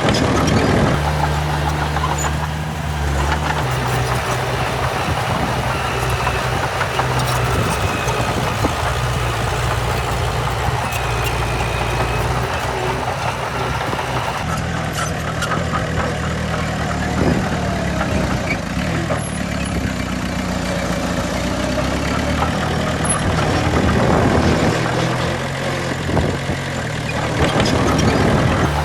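Heavy diesel engine of earthmoving machinery running steadily at a low, even note, with a few short clanks and knocks.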